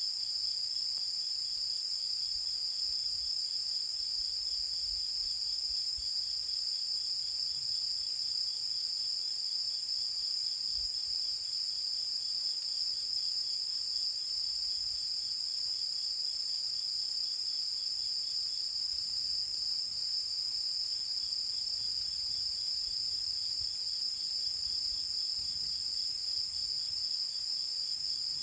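A night chorus of insects singing continuously: a steady, unbroken high-pitched trill with a second, higher layer above it and a fainter, rapidly pulsing song a little lower.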